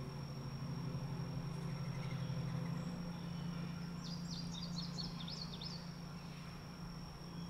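A steady low hum runs throughout. About four seconds in, a bird sings a quick run of chirps lasting about two seconds.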